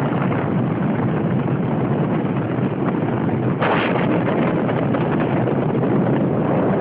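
Wind buffeting the microphone: a loud, steady rushing noise with gusty rumbling and no clear tone.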